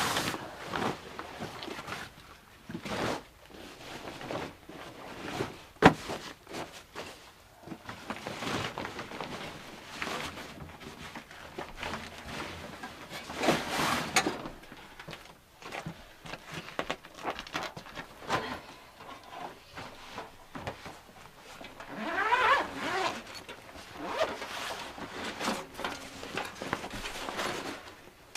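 Irregular rustling and scraping handling noises with scattered sharp clicks, one loud click about six seconds in, and a brief creak near the end.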